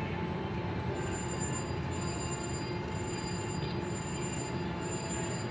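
Steady casino-floor din of many slot machines, with thin high electronic tones from a slot machine switching on and off about once a second.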